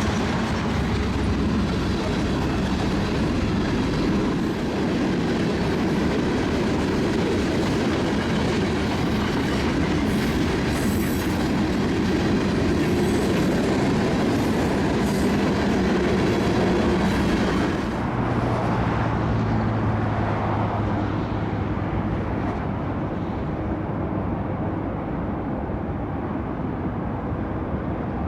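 BNSF freight train rolling past, its cars' wheels clattering over the rail joints. About two-thirds of the way through, the bright clatter drops away, leaving a low steady hum as the sound eases.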